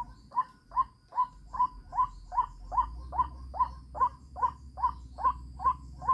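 White-breasted waterhen (ruak-ruak) calling: a short, sweeping note near 1 kHz repeated evenly and monotonously, about two and a half times a second. Faint steady high insect-like tones run underneath.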